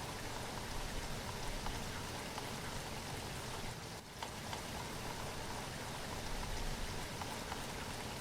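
Steady rain falling, with scattered individual drop hits standing out over an even hiss. The level dips briefly about halfway through.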